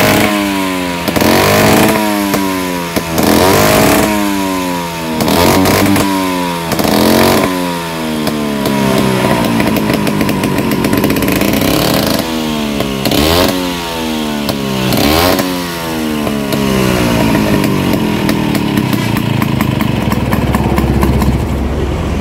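Vespa scooter engine being test-revved: the throttle is blipped over and over, the pitch climbing and dropping back about every second and a half. In the last few seconds it settles into a lower, steadier run.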